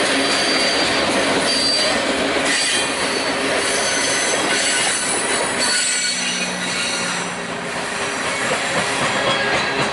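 Freight cars rolling past: steel wheels running on the rails in a loud, steady rush, with high-pitched wheel squeal coming and going.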